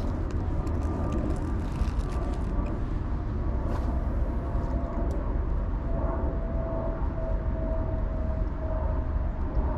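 Steady low outdoor rumble, with a faint steady hum joining in the second half and a few light clicks.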